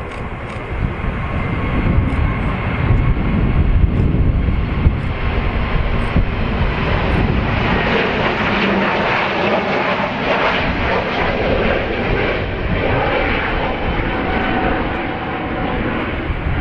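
Engine noise of a passing jet airliner. It grows louder over the first several seconds, is strongest about halfway through, then eases slightly.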